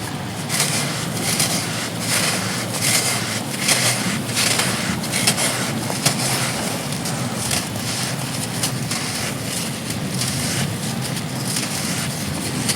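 Dried pure sand blocks crumbling and crunching in many irregular crackles, over a steady rush of heavy wind and rain.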